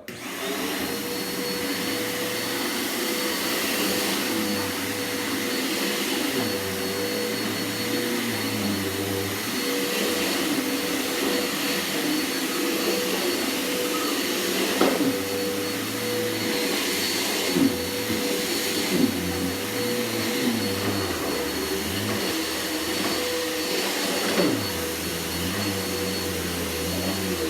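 Bissell PowerForce upright vacuum cleaner running with a steady motor whine as it is pushed over the floor, with a few sharp clicks along the way. It is switched off at the very end and begins to wind down.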